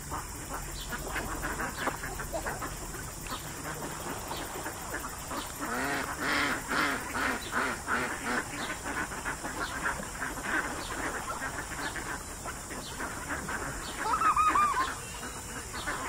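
Birds calling: many short calls overlapping and repeating, busiest around six to eight seconds in, with a louder call near the end.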